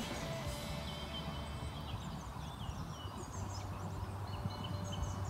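Small birds chirping and twittering in short, quick calls over a low outdoor rumble, with a steady low hum coming in a little past halfway.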